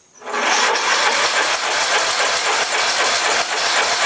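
Riding lawn mower engine turning over on its electric starter without firing, a loud steady cranking with an even pulsing rhythm that begins about a third of a second in. It cannot catch because the spark plug wire is disconnected.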